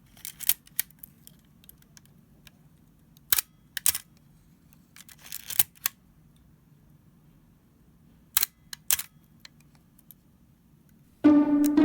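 Canon A-1 35 mm SLR shutter being fired several times to test it: sharp mechanical clicks, some in pairs about half a second apart. Music begins near the end.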